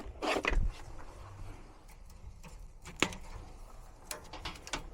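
Handling noise from working on furnace blower wiring: a rustle at the start, then scattered sharp clicks, the loudest about three seconds in and a few lighter ones near the end.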